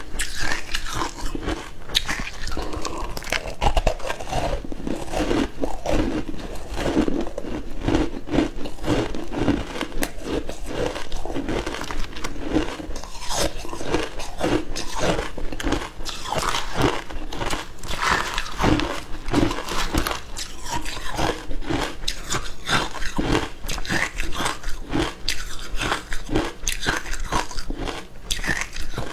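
Frozen matcha ice being bitten and chewed: a continuous run of crisp crunches, several a second.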